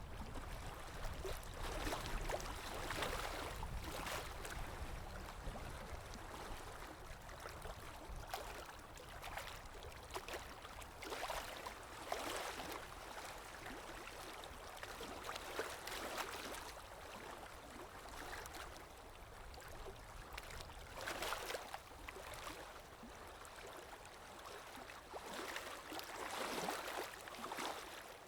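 Underwater ambience: a continuous rush of water with a low rumble beneath it, swelling in irregular surges every few seconds.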